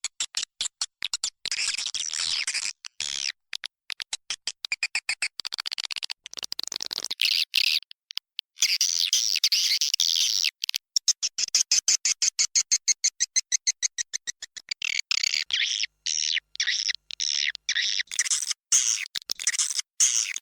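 Edible-nest swiftlets twittering inside a swiftlet house: rapid trains of clicks mixed with high, chattering chirps. It is a swiftlet lure call, played to attract swiftlets to roost and nest.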